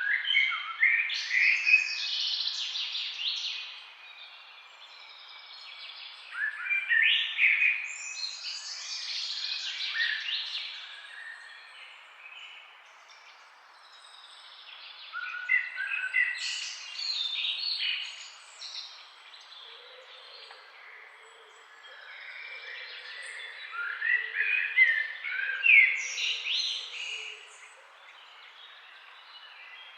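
Songbirds chirping and trilling in four loud bursts with quieter spells between, over a steady faint background hiss.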